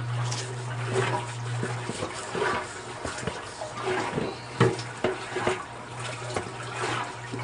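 Water sloshing in the tub of an old Kenmore wringer washing machine as it agitates and rinses, over a steady low hum from the machine's motor.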